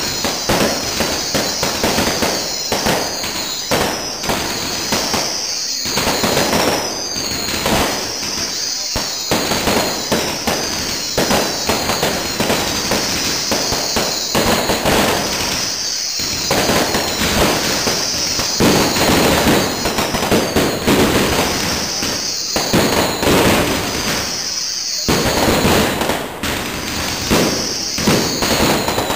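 Fireworks display: aerial shells and crackers bursting overhead in rapid, nearly continuous bangs and crackling.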